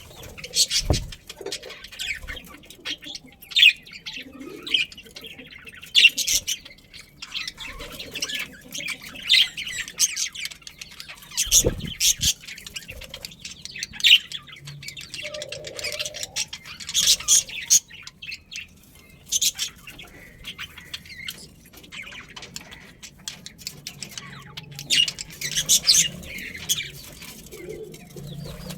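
Budgerigars chirping and squawking, many short, high calls on and off, with two low thumps, one about a second in and one near the middle.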